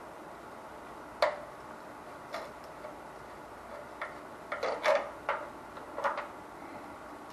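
Irregular light clicks and taps, about a dozen, bunched together a little past the middle, as tools and parts are handled while working on an electric water heater's wiring.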